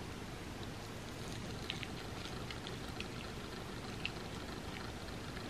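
Faint close-up chewing of a chocolate candy bar filled with crispy puffed rice and peanuts: a few scattered small crunchy crackles over a steady low hiss.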